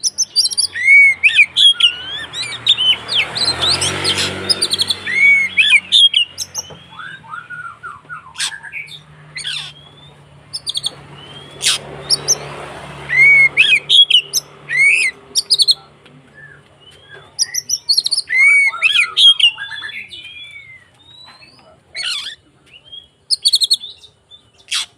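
Oriental magpie-robin (kacer) singing in quick, varied bursts of arching whistles, chirps and sharp clicks: the agitated 'konslet' fighting song. Two stretches of rushing noise come in under the song, a couple of seconds in and again about halfway.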